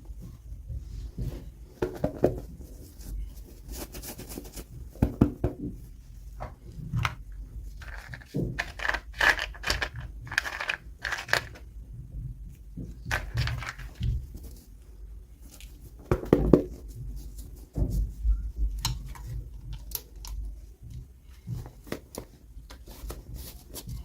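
Hands unboxing small toys: packaging being torn and crinkled, with scattered sharp clicks and knocks.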